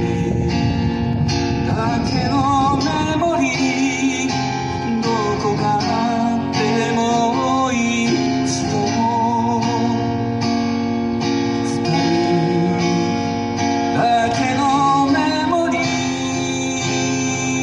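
Acoustic guitar strumming chords of a Japanese folk song, under a melody line that wavers with vibrato.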